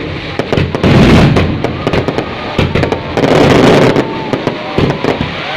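Fireworks going off: a rapid series of sharp bangs and crackles, with two louder, longer booms about a second in and at about three and a half seconds.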